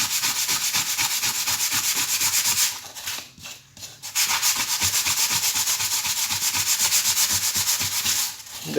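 Sanding sponge rubbed back and forth on a copper-clad circuit board blank in quick, even strokes, scuffing the copper before toner transfer. The strokes stop for about a second and a half partway through, then start again.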